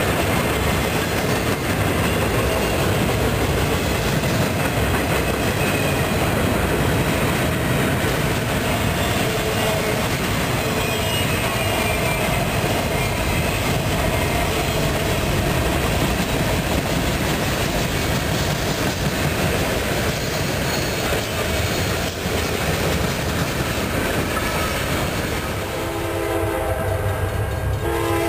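Freight train cars rolling past close by, a steady rumble with wheels clicking over the rail joints. Near the end a locomotive horn begins to sound, a chord of several notes held steady.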